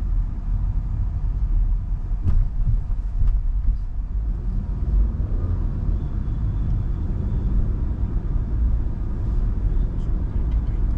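MG Hector Plus SUV with its 1.5 turbo petrol engine and CVT, driving in traffic: a steady low rumble of road and running noise, with a few faint clicks.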